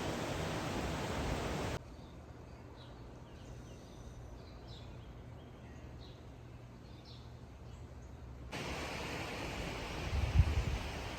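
Outdoor seaside ambience: a steady rush of wind and surf, then a sudden drop to a quiet stretch with faint, scattered bird chirps. Near the end the rush returns, with low thumps of wind buffeting the microphone.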